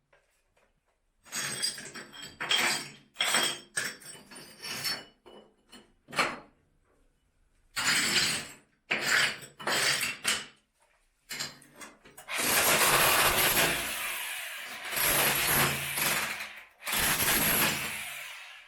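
Makita rotary hammer breaking up a brick wall, run in bursts with pauses between. Brief crashes and clatter come first, then three longer runs of the hammer in the second half.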